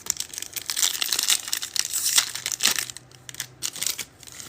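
Foil wrapper of a trading-card pack being torn open and crinkled, dense crackling that is loudest for the first three seconds, then lighter handling.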